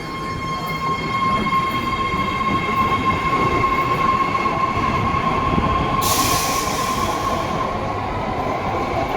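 BART train departing the station: wheels rumbling on the rails under a steady high whine. About six seconds in, a hiss lasts for about a second and a half.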